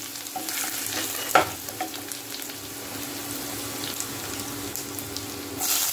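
Chopped garlic and julienned ginger sizzling and crackling in hot oil in a kadai. There is one sharp knock about a second and a half in, and the sizzle grows louder near the end.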